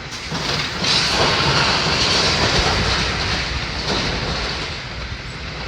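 A vehicle passing by: a steady rushing noise that swells about a second in and eases off toward the end.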